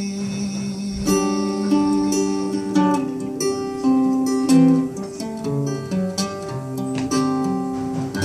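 Acoustic guitar playing an instrumental passage of plucked notes and chords, with no singing.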